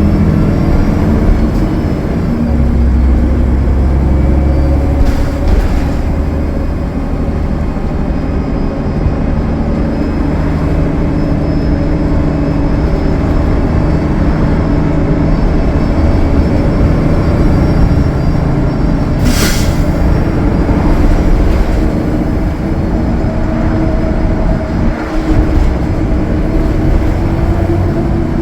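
Cummins ISL9 diesel engine and drivetrain of a Gillig Low Floor transit bus running steadily at highway speed, with road noise, heard from aboard. A short hiss comes about two-thirds of the way through.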